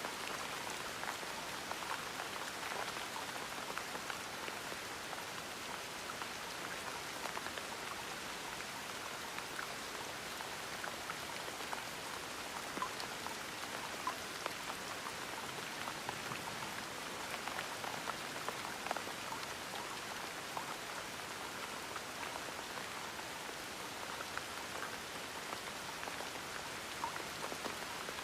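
Gentle rain falling steadily, a soft even hiss with many small scattered drop patters.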